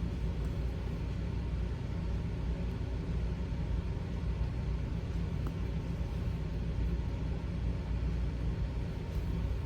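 A steady low rumble with a light hiss over it, unchanging throughout.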